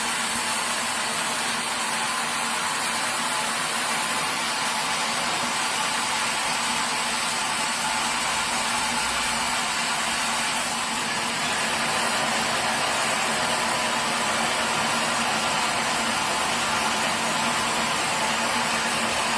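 Sawmill machinery running steadily: a loud, even whir with a faint underlying hum, a little louder from about halfway through.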